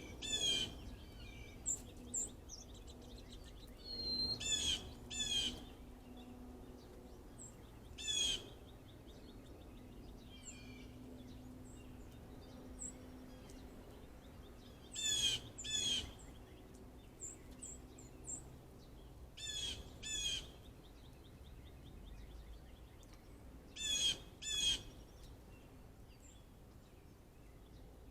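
Wild birds calling all around: a loud, ringing call phrase comes in pairs every few seconds, and short high chirps from other birds fall between them.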